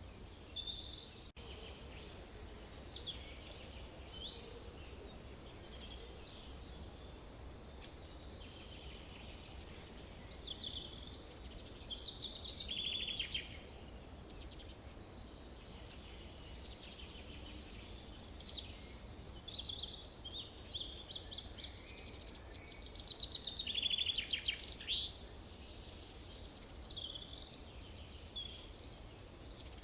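Forest birds singing and calling, many short chirps and whistles overlapping, with two louder rapid trills about halfway through and again near the end, over a steady low rumble of background noise.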